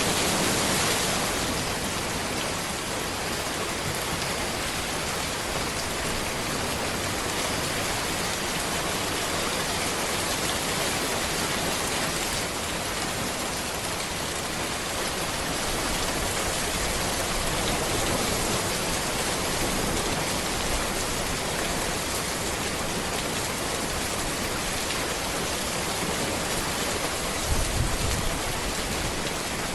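Steady rain falling on a road and forest trees, an even hiss of drops throughout. A brief low rumble rises above it near the end.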